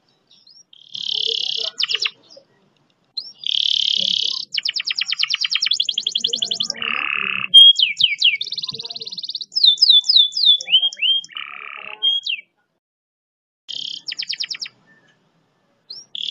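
A domestic canary singing in bursts of long, fast rolling trills and quick downward-sweeping whistles, with short pauses between phrases.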